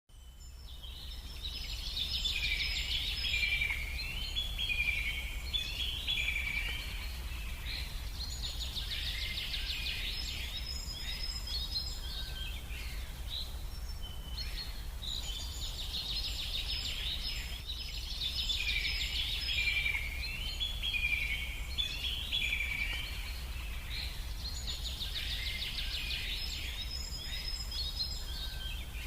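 Birds singing in long bouts of quick chirps and trills, four bouts with short pauses between them, over a steady low rumble.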